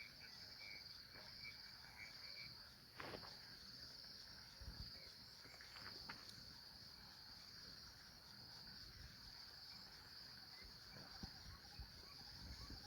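Faint, steady high-pitched chorus of crickets or other night insects, with a couple of soft clicks.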